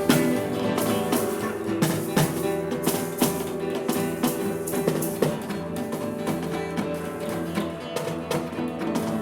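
Psychedelic rock band playing: electric guitar over bass and drums, with sharp drum hits coming every second or so.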